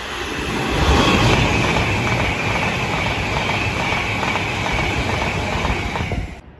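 Avanti West Coast express train passing through at speed: a rush of wheel and air noise that swells over the first second and then holds, with a high whine slowly falling in pitch. It cuts off suddenly near the end.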